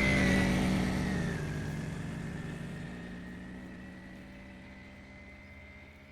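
Small 50 cc two-stroke moped engine running and fading steadily away, its high whine dropping slightly in pitch in the first second or so as it moves off.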